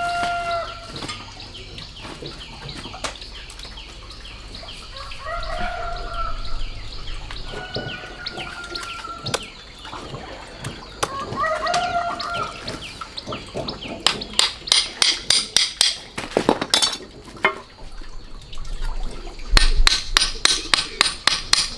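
Roosters crowing, with a drawn-out call at the start, another about six seconds in and another about twelve seconds in. In the second half come two runs of quick sharp clicks, several a second.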